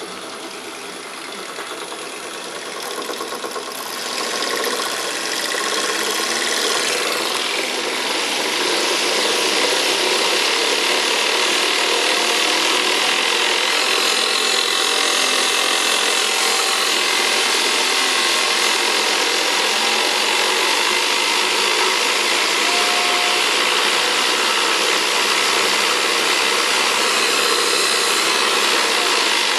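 CNC milling machine running and cutting, a steady rasping noise that builds over the first eight or nine seconds and then holds level.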